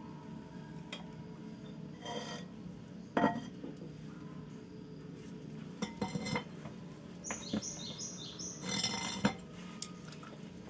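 Dishes and utensils clinking and knocking a handful of times, with a few short scrapes. A bird chirps a quick series of high falling notes past the middle.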